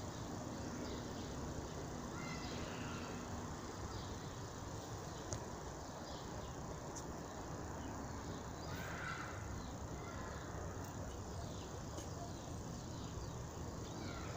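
Wind rushing steadily over the microphone, with faint bird chirps scattered through it and one clearer call about nine seconds in.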